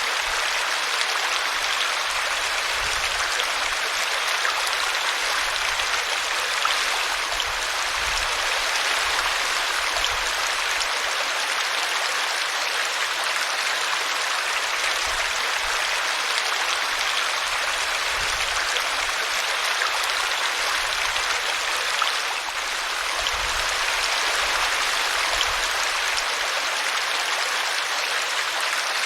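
A small brook running over a tree root, a steady even splashing of water.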